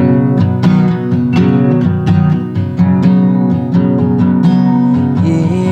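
Instrumental song music led by an acoustic guitar strumming steady chords, with no singing.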